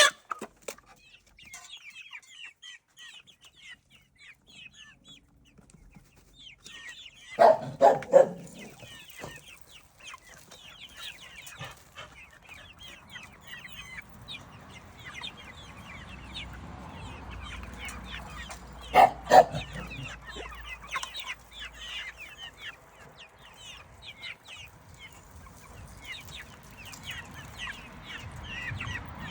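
A flock of chickens clucking and chirping, settling toward the roost, with quick high peeps all through. Louder calls stand out: three about 8 seconds in and two more around 19 seconds.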